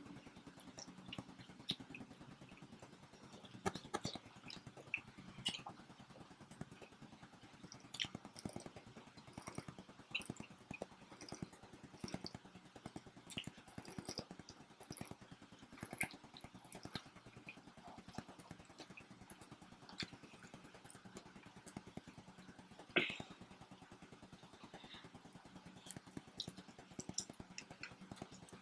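People eating pizza: scattered soft chewing and mouth clicks, with an occasional tap or knock, one a little sharper than the rest, over a steady low hum.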